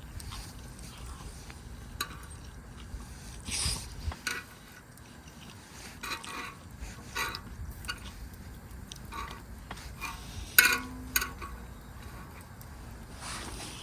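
Metal utensils clinking and scraping against a cooking plate or pan, in scattered short strokes over a low steady background; the loudest clink, about ten and a half seconds in, rings briefly.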